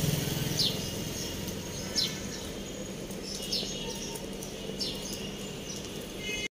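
A bird repeating a short, high, downward-sweeping chirp about every second and a half over steady outdoor background noise. The sound cuts out abruptly near the end.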